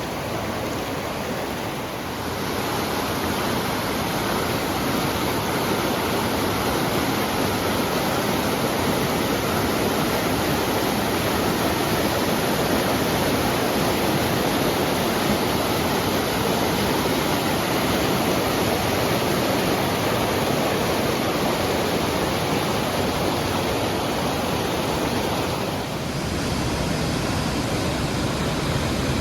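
Steady rush of fast-flowing water in Tumalo Creek, an even wash of noise with no distinct splashes, its level shifting slightly about two seconds in and again near the end.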